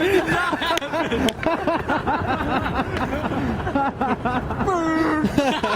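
Several voices talking and laughing over each other, with a couple of short sharp clicks about a second in.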